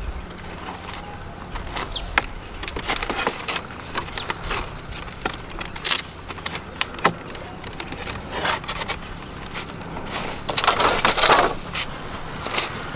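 Scattered sharp clicks and knocks, with a louder crackling, scraping burst about eleven seconds in.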